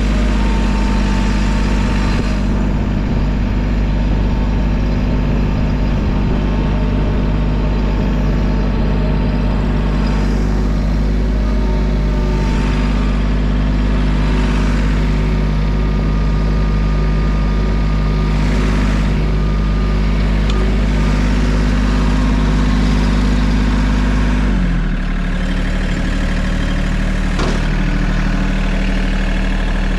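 A large engine idles steadily. About 25 seconds in, its speed steps down slightly and it gets a little quieter.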